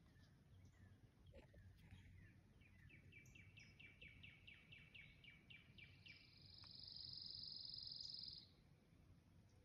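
Songbird singing in the woods: a run of quick down-slurred chirps, about four or five a second, then a steady high trill that stops about eight and a half seconds in, over a faint low background rumble.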